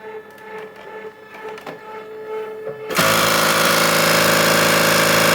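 Cricut Expression cutting machine switched on with a fault: a quieter whirring hum with light clicks, then about three seconds in a sudden loud, harsh, rapid hammering rattle as the cutting carriage keeps hitting the side of the machine. The owner traces this horrible sound to an internal wire connector that has come loose.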